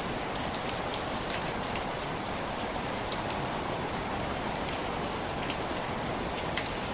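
Steady rain with individual drops ticking sharply against window glass, irregularly, over a constant wash of rainfall.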